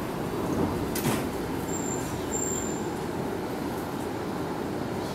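Odakyu 3000-series electric commuter train standing at the platform with its doors open, its onboard equipment giving a steady low hum, with a single click about a second in.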